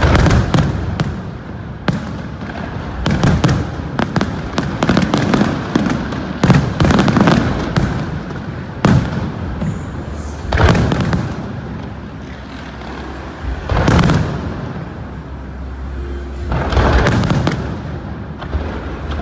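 Fireworks display: a dense run of aerial shell bursts and crackling, with louder booms every few seconds.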